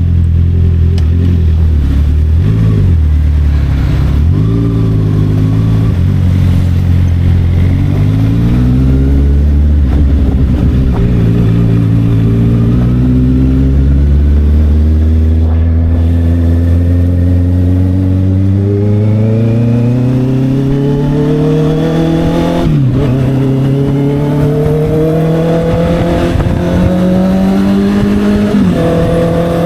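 Honda CB650R inline-four with an SC Project exhaust riding along: the engine holds a steady pitch with a couple of brief throttle dips, then climbs in revs for about ten seconds under acceleration, drops sharply at an upshift, and climbs again before a second upshift near the end.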